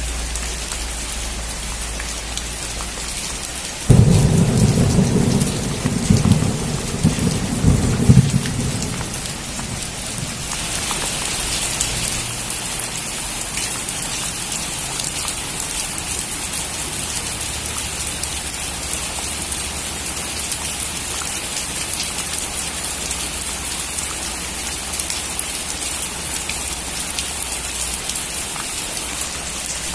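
Steady rain falling, broken about four seconds in by a sudden loud thunderclap that rumbles for around four seconds with two further cracks. From about ten seconds in the rain grows heavier.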